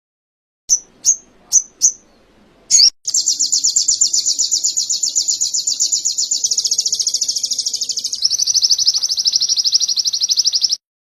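A sogon (sogok ontong, a spiderhunter) singing canary-like song. Four short sharp chirps are followed by one long, very fast high trill that shifts to a slightly lower, denser trill about two-thirds of the way through, then stops abruptly.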